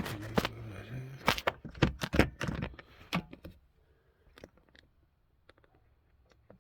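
Quick clicks and knocks of a 1970s Seiko day-date clock's parts being handled as it is taken apart. After about three and a half seconds they thin to a few faint ticks.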